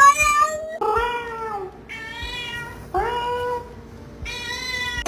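Domestic cat meowing repeatedly: about five drawn-out meows in a row, each bending in pitch.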